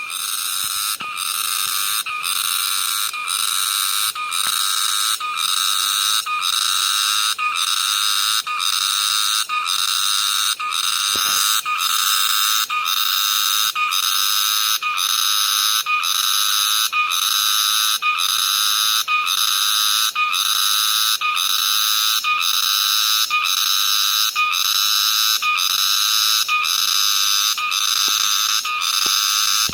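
A cicada singing loud and close: a continuous high, shrill buzz chopped into even pulses, about three every two seconds, swelling a little over the first few seconds.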